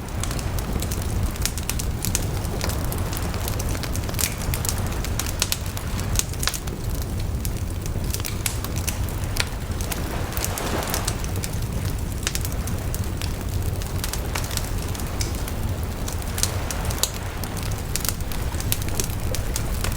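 Wood bonfire burning steadily with a low rumble and frequent sharp crackles and pops, with brief hissing flares now and then.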